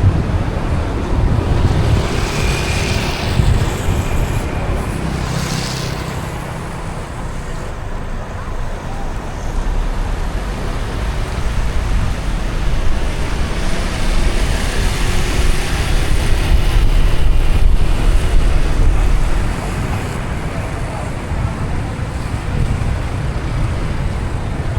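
Road and traffic noise from a car driving through city streets: a steady low rumble with passing hisses. A deeper rumble swells in the middle and drops away about twenty seconds in.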